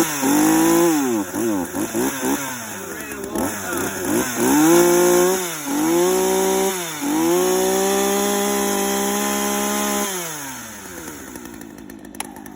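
Gas chainsaw that has sat unused for a long time, running again and being revved in repeated throttle blips, then held at high revs for a few seconds. The revs fall away about ten seconds in.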